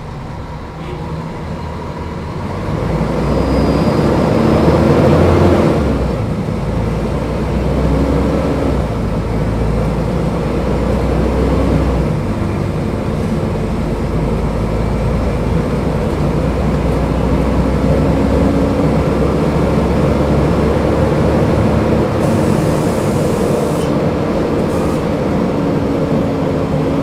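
Engine of a Mercedes-Benz O500UDA bus with a Caio Millenium BRT body, running under way. It builds in loudness over the first few seconds, peaks, then settles to a steady drone with small shifts in pitch.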